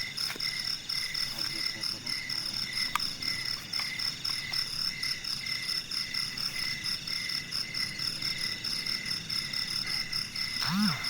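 Night chorus of insects and frogs: a high, steady pulsing trill of insects with a lower call repeating about twice a second underneath. A few faint clicks, and a rising-and-falling tone begins near the end.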